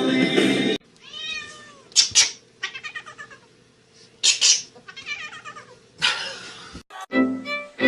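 A cat meowing and caterwauling in a series of drawn-out calls, with a few short harsh bursts among them. Music plays briefly at the start, cuts off under a second in, and comes back near the end.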